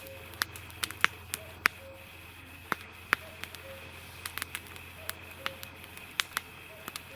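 Campfire crackling: irregular sharp pops and snaps, one or two a second, over a faint steady hiss.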